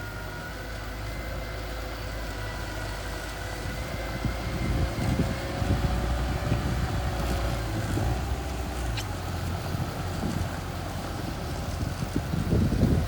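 Mini bulldozer's engine running steadily, with wind buffeting the microphone from about four seconds in.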